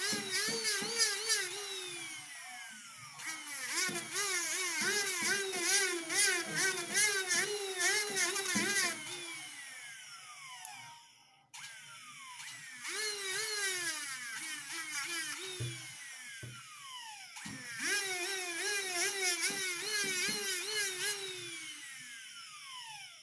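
Small high-speed rotary tool, a jeweller's micromotor handpiece, whining as it grinds or polishes, its pitch wobbling up and down as it bears on the work. It winds down about halfway through, then starts again and runs until it stops near the end.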